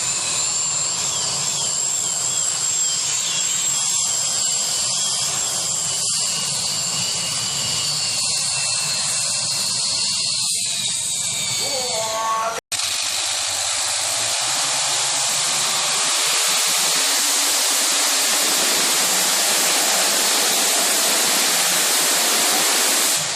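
Competition pulling tractor running at full power, a loud steady high-pitched whine with wavering tones over a broad rush of engine noise. It breaks off abruptly about halfway through and picks up again as a louder, rougher roar.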